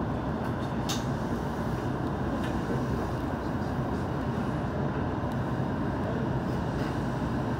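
Electric passenger train running, heard from inside the carriage: a steady rumble of wheels on rail with a few faint clicks.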